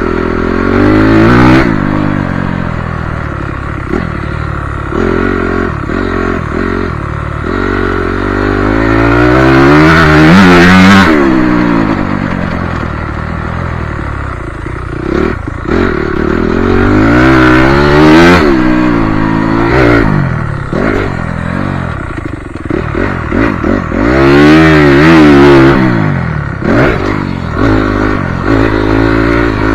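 Motocross bike engine revving hard and easing off over and over, its pitch climbing and dropping through the gears, loudest about ten and twenty-five seconds in, with some clatter.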